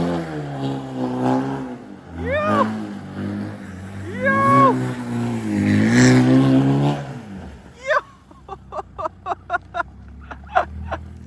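2015 BMW 328i's turbocharged four-cylinder engine revving hard during a burnout on wet pavement, its pitch rising and falling repeatedly, then dropping away after about seven and a half seconds.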